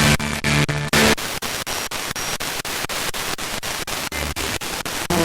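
Spirit box (a radio scanning rapidly through stations) sweeping: static hiss chopped into short bursts several times a second. Brief snatches of pitched broadcast sound come through in the first second and again near the end.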